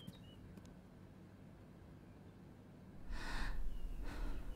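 Quiet for about three seconds, then two breathy swells about a second apart, like heavy breaths or sighs, over a low rumble.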